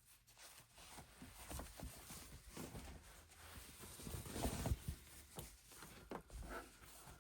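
Handling noise from towels and their packaging being unfolded and moved about: soft rustling with scattered light knocks, loudest about four and a half seconds in.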